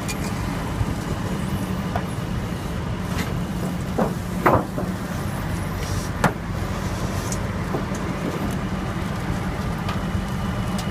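Heavy truck engine running steadily at the scene of a recovery, with a few sharp metallic knocks, the loudest about four and a half seconds in.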